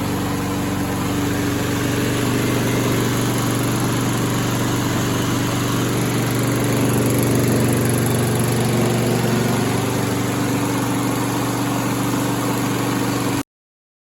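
Kohler XT675 single-cylinder engine on a walk-behind lawn mower running steadily, with an even engine note. The sound cuts off abruptly near the end.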